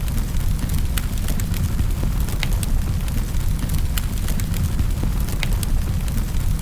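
Wood fire crackling in a fireplace: a steady low rumble of the flames with sharp, irregular pops and snaps.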